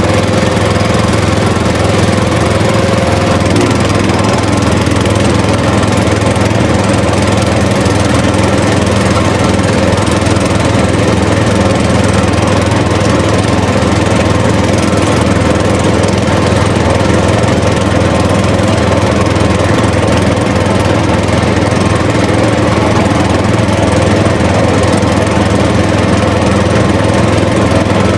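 A small motor running at a steady, even speed with a constant hum.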